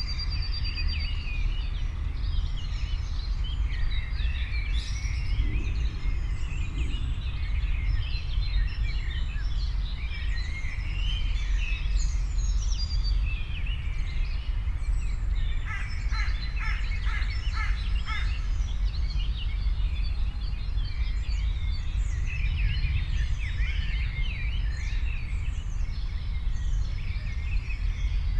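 Many small birds chirping and singing over a steady low rumble. About halfway through, one bird gives a quick run of about seven evenly spaced notes.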